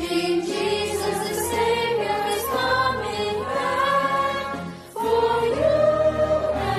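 Music with a choir singing a melody over a bass accompaniment, pausing briefly about five seconds in before carrying on.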